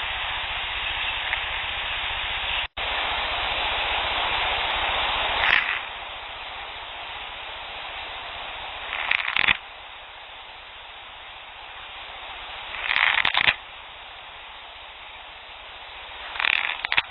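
Field recording under steady recorder hiss, with short rasping scratches every three to four seconds, four of them, each under a second; a scratching that the recordist takes for a Sasquatch and likens to Velcro being ripped or a tree being shredded. The hiss drops out briefly near the start and is quieter after the first scratch, where the clips are joined.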